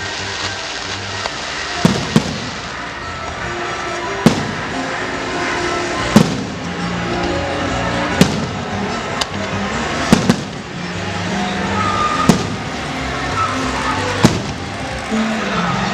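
Fireworks going off, a sharp bang about every two seconds, with music playing underneath.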